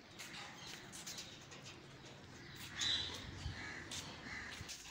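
Bird calls: three short calls in quick succession, the first the loudest, starting about three seconds in.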